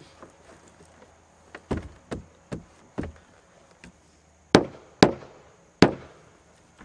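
Nails being driven into wood framing: four lighter bangs about half a second apart, then three loud, sharp bangs about half a second to a second apart.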